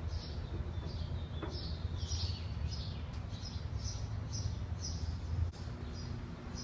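A small bird chirping over and over, a few short high chirps a second, over a steady low hum.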